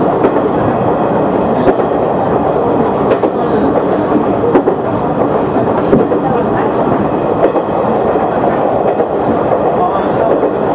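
KiHa 100 diesel railcar running along the line: a steady rumble of engine and wheels on rail, with occasional clicks as the wheels pass rail joints.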